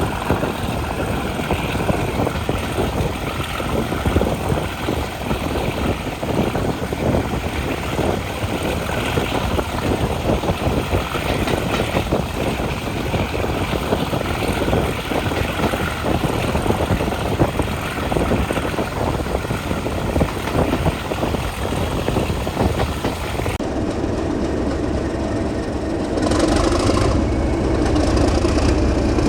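A diesel-hauled heritage passenger train on the move: a steady rumble of wheels and carriage running over the track, with many quick knocks. Near the end the sound changes and grows louder, with a steady engine hum coming forward.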